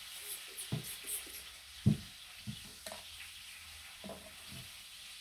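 A few light taps and clicks of small hard pieces being handled, with one sharper knock about two seconds in, over a steady hiss.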